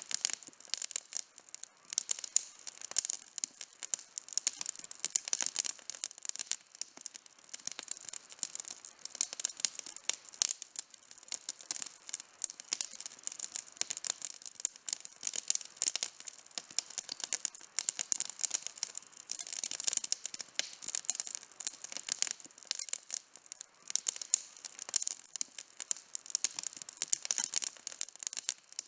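Campfire burning, wood crackling and popping in a dense, irregular stream of sharp snaps.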